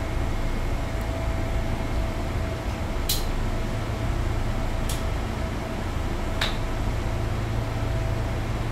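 Inside a Sotetsu 8000 series train car: a steady low rumble with a constant hum. Three sharp clicks a second or two apart break the rumble.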